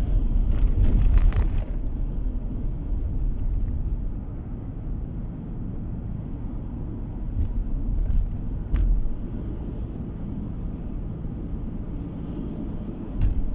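A car driving on the road: a steady low rumble of tyres and engine, a little louder in the first two seconds, with short knocks or rattles about nine seconds in and again near the end.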